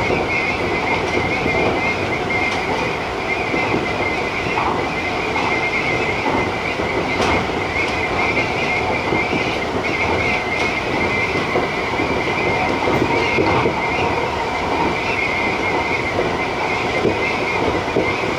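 Tobu TJ Liner electric train running at speed: a steady rolling noise of wheels on rail with a high, wavering hiss, and a few short knocks as it runs over rail joints.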